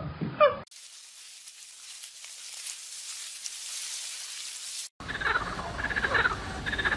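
A cat's meow cuts off, followed by about four seconds of steady high-pitched hiss. A little before the end come repeated short animal calls, a few each second.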